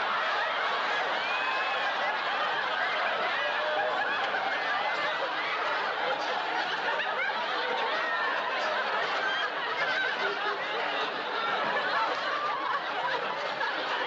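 Sitcom studio audience laughing, many voices at once, steady and unbroken through a stretch of wordless physical comedy.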